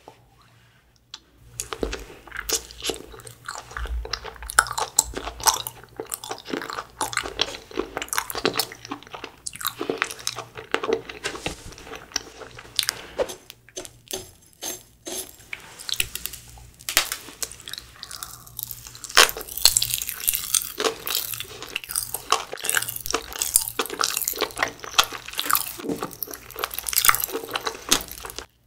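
Chewing and biting of half-thawed frozen chapssal-tteok (sticky rice cakes), with many sharp crackles from popping candy, which grow denser and brighter in the second half.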